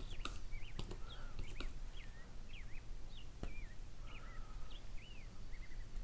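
A small bird chirping over and over in short calls that slide up and down in pitch, with a few light clicks in between.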